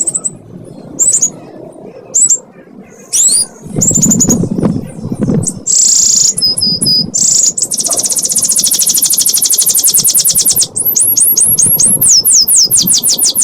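Canary singing: a few short, high whistled notes, then a long, very fast rolling trill (the 'ngekek') lasting a couple of seconds, then a quick run of falling, sweeping whistles.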